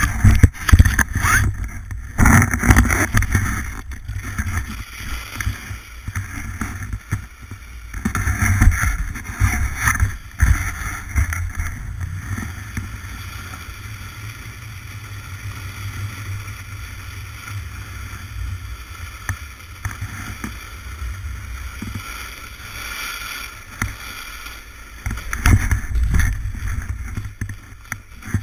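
A snowboard sliding and scraping over snow during a ride, with wind rumbling on the microphone. It comes in loud surges near the start, again about a third of the way in, and near the end, and is steadier and quieter in between.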